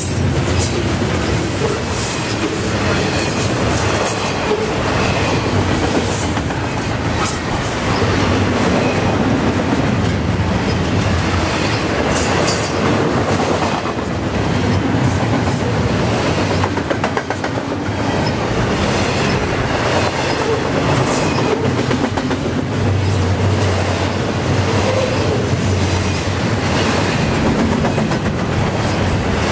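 Double-stack container well cars of a long intermodal freight train rolling past close by: a steady loud rumble and rush of steel wheels on rail, with a quick run of clicks as the wheels cross rail joints.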